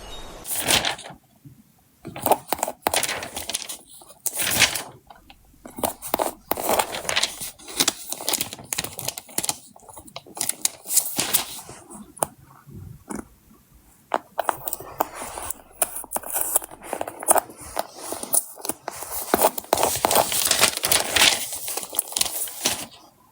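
Stickers being peeled off their backing sheet and handled: irregular short bursts of peeling, crinkling and scraping of paper and plastic film.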